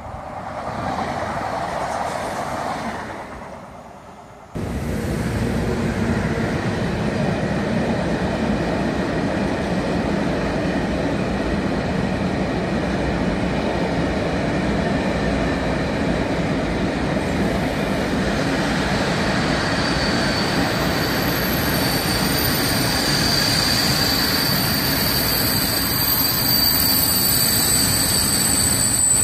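A Minuetto regional train passes briefly at the start. Then a long freight train of covered hopper wagons rolls past close by with a steady rail rumble of wheels on track. High-pitched wheel squeal sets in and grows through the later part.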